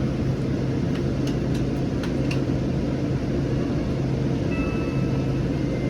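Inside a Siemens S700 light rail car under way: a steady low hum over an even rumble.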